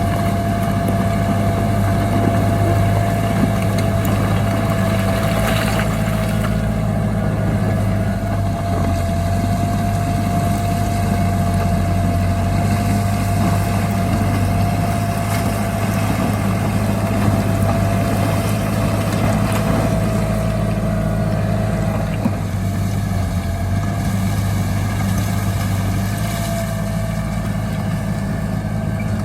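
Heavy diesel engine of earthmoving machinery running steadily, with a steady high whine over the low engine note.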